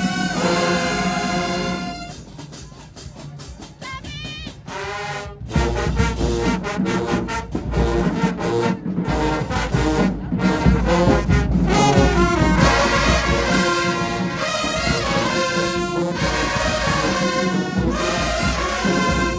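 High school marching band playing: trumpets and trombones over drums. The band drops to a quieter passage about two seconds in and comes back in at full volume with the percussion about five seconds in.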